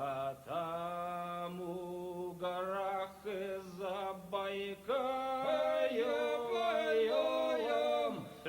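Unaccompanied singing in slow phrases with long held notes that glide between pitches, from a recording cut off above about 4 kHz.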